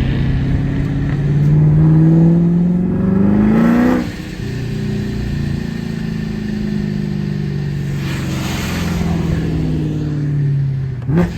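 Car accelerating hard, its engine pitch climbing, dropping sharply at a gear change about four seconds in, then climbing again through the next gear.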